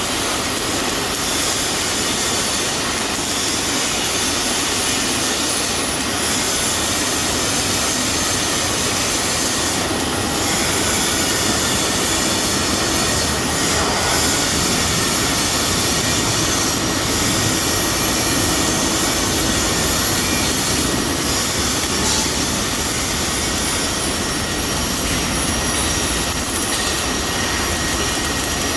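Robotic welding cell at work: a loud, steady hiss and machine noise with a few faint high whines, unbroken throughout.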